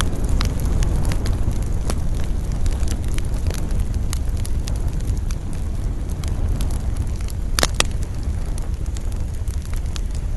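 Wood campfire crackling with many scattered sharp pops over a steady low rumble of wind, with a louder double pop about three quarters of the way through.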